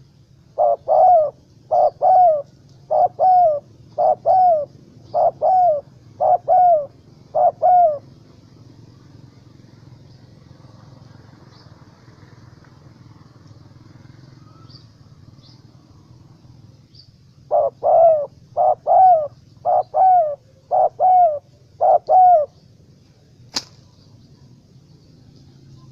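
Spotted dove cooing: two bouts of repeated two-part coos, about one a second, with a pause of some ten seconds between them. Faint high chirps sound behind, and one sharp click comes near the end.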